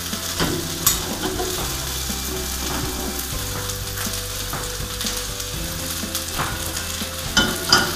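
Mixed vegetables (peppers, green beans, baby corn, mangetout) sizzling in hot sesame oil in a wok, a steady hiss, with a few light clicks of handling about a second in and near the end.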